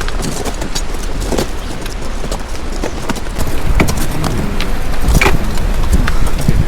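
Footsteps crunching on glacier ice in irregular, sharp steps, growing louder about halfway through, over a steady rumble of wind on the microphone.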